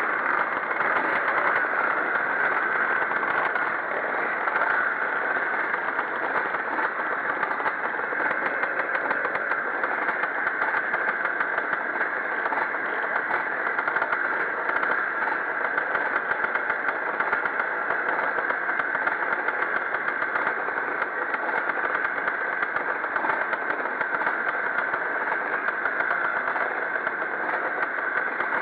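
Pre-1965 vintage motocross motorcycles racing, their engines running in steady, unbroken noise.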